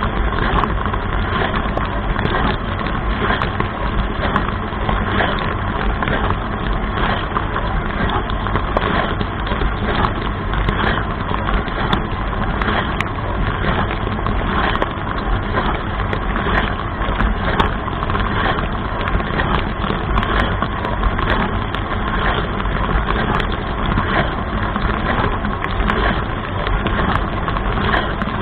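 Dishwasher running its wash cycle, heard from inside the tub: the spray arms throw water against the walls and dishes in a steady wash over the pump's hum, with frequent sharp spatters.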